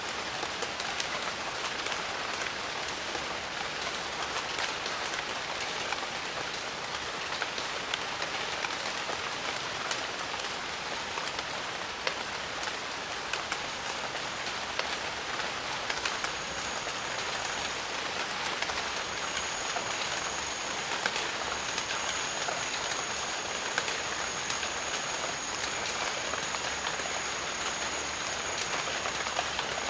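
Steady rain with many separate drops pattering on leaves and other surfaces. A thin, steady high-pitched tone joins about halfway through.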